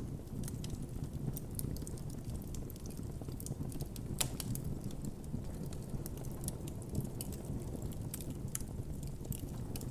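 Campfire burning: a steady low roar of flames with irregular sharp crackles and pops of burning wood, one louder pop about four seconds in.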